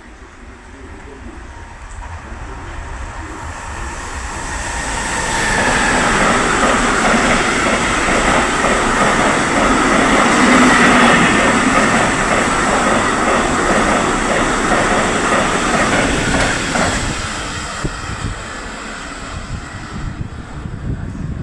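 Electric locomotive E.483 and its train passing. The rumble builds over several seconds, then comes a fast, regular clatter of wheels over the rails with a steady high whine, and it fades away as the train goes by.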